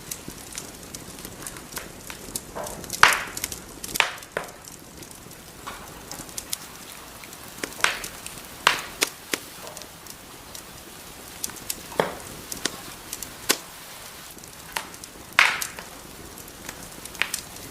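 Wood fire crackling in a fireplace: irregular sharp pops and snaps over a steady soft hiss, the loudest pops about three seconds in and about three-quarters of the way through.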